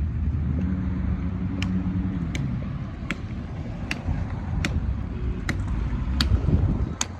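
Car engine running and road noise, heard from inside a moving vehicle, with a light tick repeating about every three-quarters of a second.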